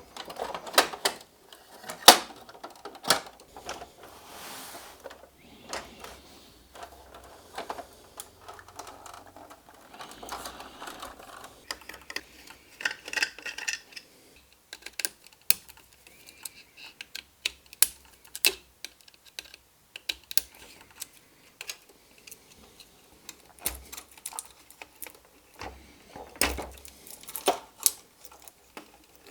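Irregular clicks, taps and light scraping of small parts and tools being handled on a workbench while a model locomotive is taken apart, with one sharper knock about two seconds in.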